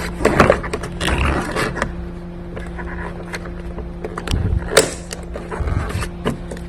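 Irregular clicks and knocks of hand tools on metal as bolts are undone, the sharpest click about five seconds in, over a steady low hum.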